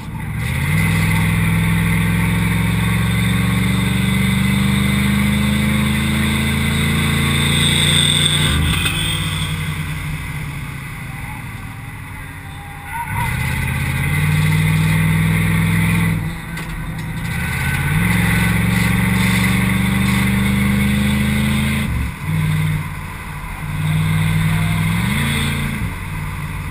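The 1988 Mercedes 560SEL's V8 engine, heard from inside the stripped cabin, running hard at a fairly steady pitch. Its note falls away sharply three times, about 8, 16 and 22 seconds in, and picks back up each time. There is a brief rise in revs near the end.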